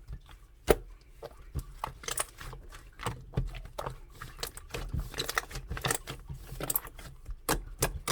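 Slime being squished and poked by hand, giving irregular crackling clicks and pops.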